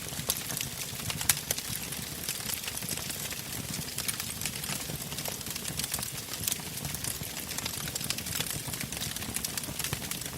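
Wood bonfire crackling: frequent sharp pops and snaps over a steady low rush of flames, with one louder pop about a second in.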